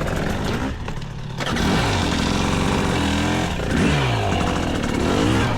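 Two-stroke dirt bike engine revving up and down under throttle. It drops off briefly about a second in, then climbs and falls in pitch several times.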